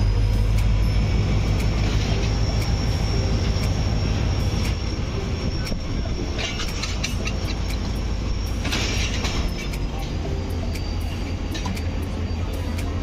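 Train running by with a deep continuous rumble and scattered sharp clicks, topped by a steady high-pitched squeal that fades out about nine or ten seconds in.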